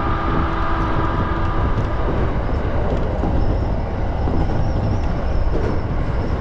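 E231-series electric commuter train running, a steady rumble of wheels on rail, with a steady whine that fades out about two seconds in.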